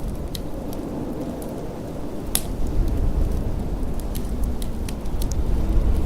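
Wood fire crackling in a fireplace with scattered sharp pops, the loudest about two and a half seconds in, over a low steady rumble of blizzard wind.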